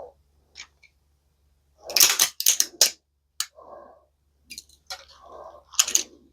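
Clicks and metallic clatter of tools and parts being handled while a microwave oven is taken apart for scrap, in several short flurries.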